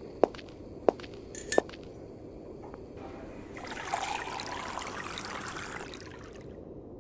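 Three sharp clicks in the first second and a half, then liquid pouring for about two and a half seconds.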